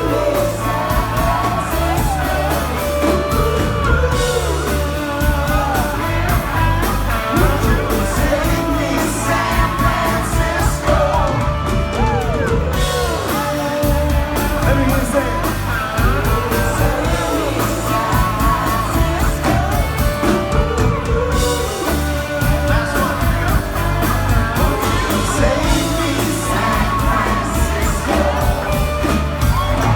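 A live rock band playing with singing over it, and yells and whoops from the crowd.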